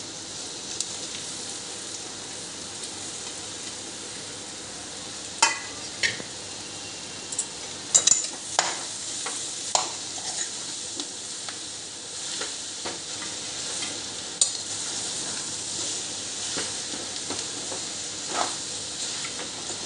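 Potato and onion masala sizzling in a kadhai while a metal spoon mashes and stirs the boiled potatoes into it: a steady frying hiss with the spoon now and then knocking and scraping sharply against the pan.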